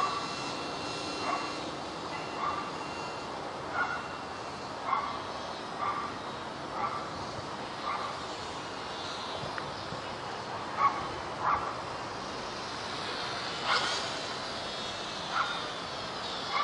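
A dog barking in short single barks, roughly once a second, over a steady background hiss.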